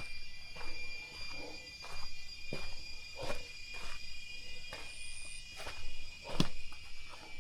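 Footsteps going down stone or wooden steps, about one step every 0.7 s, the heaviest near the end. Under them runs a steady, high-pitched insect drone, with a brief higher chirp about five seconds in.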